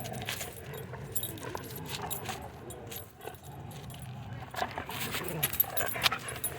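Metal dog tags on a collar jingling in quick, uneven clinks.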